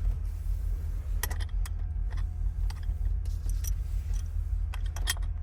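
Scattered light clicks and clinks of metal parts and tools being handled at a vehicle's steering column during ignition work, over a steady low rumble.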